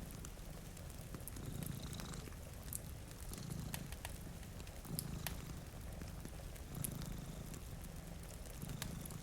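Cat purring, its low rumble swelling and fading with each breath about every couple of seconds, over scattered sharp crackles of a wood fire.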